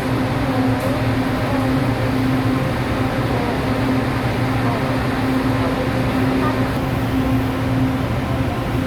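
Steady hum and rumble inside an LRT Line 2 train car while it runs: a constant mid-pitched tone over a low rumble, with the air-conditioning blowing.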